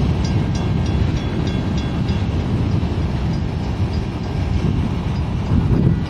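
Freight train cars rolling past with a steady low rumble. In the first couple of seconds there is a run of light, regular clicks, about three a second, from wheels going over rail joints.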